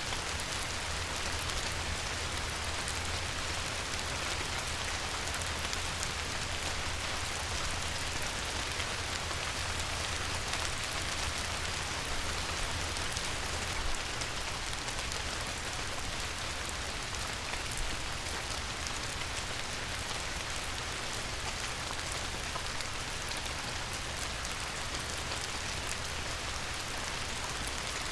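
Light rain falling on a river: a steady, even hiss of countless fine drop ticks on the water, with a low rumble underneath.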